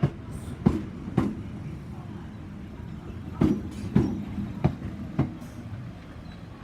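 Slow-moving train's wheels clicking over rail joints, mostly in pairs about half a second apart as each bogie's axles cross, over a low rumble.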